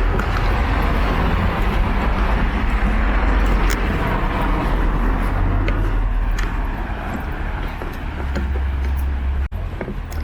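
Road traffic on wet city streets: cars passing close by, a steady rush of tyres on wet asphalt over a low engine rumble.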